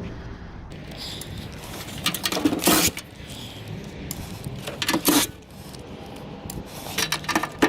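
Scattered sharp metal clinks and knocks of hand tools and loose parts against an old microwave's sheet-metal chassis as it is taken apart for scrap.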